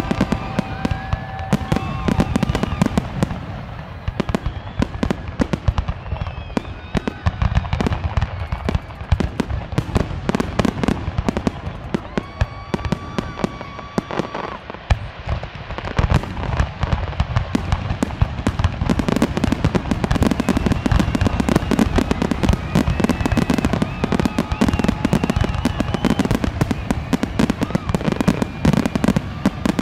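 Fireworks display: dense crackling and popping over deep booms, thickening into a nonstop barrage about two-thirds of the way through. A few thin whistling tones rise and hold here and there.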